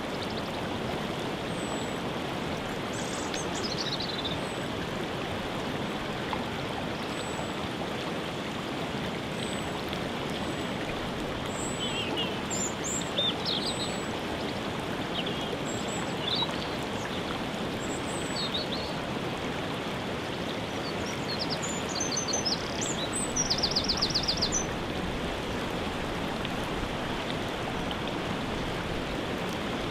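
Waterfall rushing steadily, with birds calling over it: scattered short chirps, and a rapid trill of repeated notes lasting about a second and a half late on.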